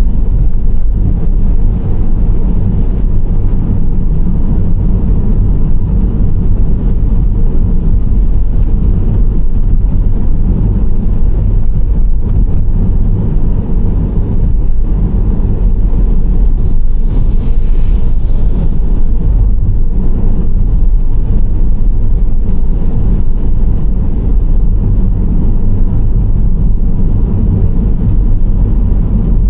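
Nissan Serena C25 minivan driving at speed: a steady low rumble of road and engine noise. A brief hiss rises and fades a little past halfway through.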